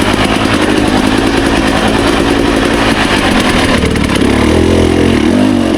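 Dirt bike engine running while riding a trail, pulling through a sharp corner; its note gets louder from about four seconds in as the throttle opens.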